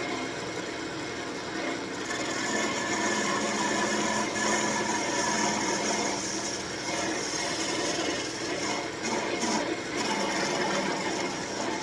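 Wood lathe running while a narrow parting tool cuts into a spinning birch spindle, a steady scraping hiss that grows a little louder about two and a half seconds in.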